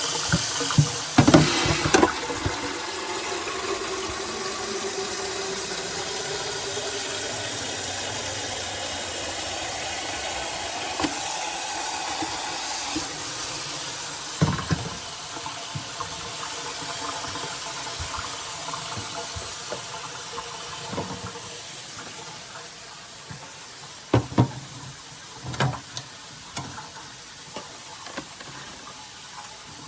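Keurig K-Slim pod coffee maker dispensing into a cup: a steady stream of pouring liquid whose pitch climbs as the cup fills, then tails off over the second half. A few sharp knocks come near the start and again late on.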